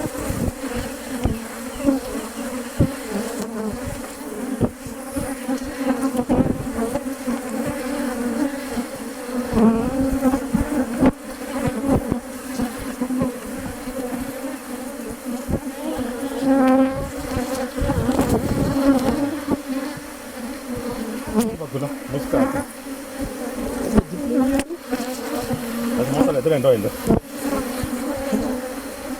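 Honeybees from an opened Langstroth hive buzzing in a dense, steady hum, with frequent short low thumps mixed in.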